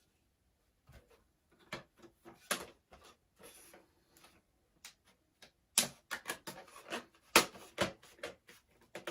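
Wooden beehive frame parts being handled and fitted together: irregular sharp clicks and light knocks of wood, sparse at first and coming thicker and louder from a bit past halfway.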